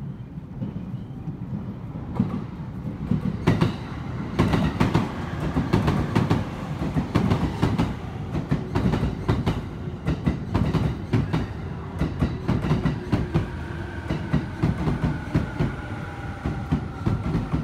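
Electric train rolling along the station platform, its wheels clacking rhythmically over rail joints. Near the end a motor whine sinks slightly in pitch, as when the train slows.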